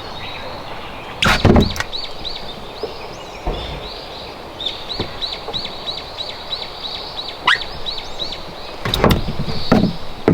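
A bird calling a long series of short, high notes, about three a second. A few loud knocks and thumps come about a second in and again near the end.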